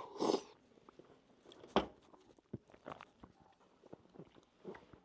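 A person chewing food close to the microphone: small wet mouth clicks and smacks, with a short breathy noise at the start and one sharp click a little under two seconds in.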